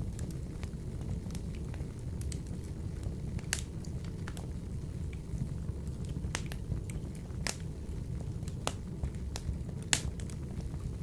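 Wood fire burning in a wood-burning stove: a steady low rumble with scattered sharp crackles and pops, the loudest about ten seconds in.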